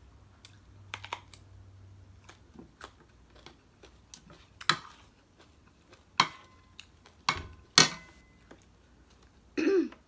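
Utensils and dishes clicking and knocking irregularly during a meal, with a few louder knocks in the second half, two of them leaving a brief ring. A short pitched sound comes near the end.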